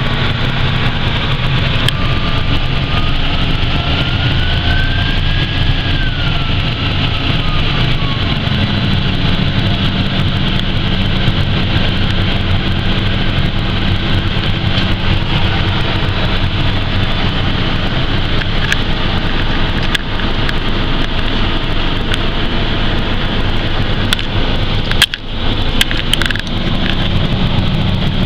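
2012 Case IH 225 hp tractor's diesel engine running steadily. A high whine rises and falls in pitch over the first several seconds, and the engine note changes about eight seconds in.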